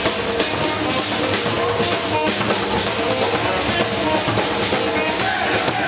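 Brazilian drum ensemble playing live, a dense steady groove of drums and percussion.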